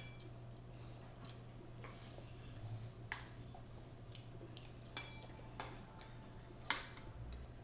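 Cutlery clinking against dishes during a meal: about half a dozen light, separate clinks, some with a brief ring, over a faint steady low hum.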